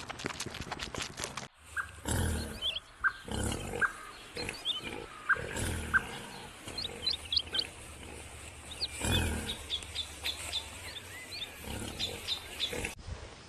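A large animal's short, low calls, repeated every second or two, with small birds chirping high and thin behind them. A clattering sound cuts off after about a second and a half.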